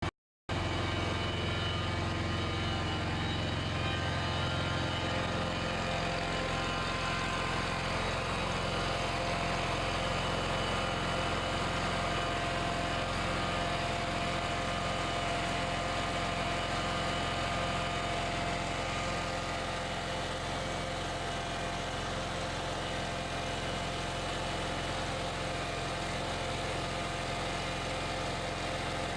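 Steady machine hum, like a motor or engine running, with several steady tones over a low noise.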